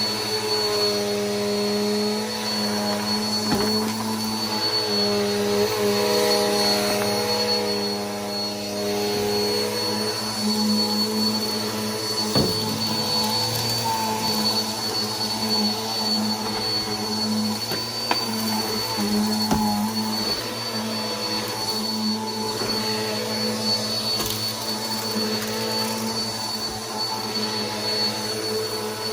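Bissell PowerForce Helix upright vacuum cleaner running steadily, its motor giving a constant high whine over a lower hum, with a few brief knocks along the way.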